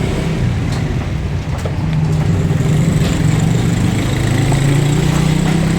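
A steady engine or motor hum, growing a little stronger about two seconds in.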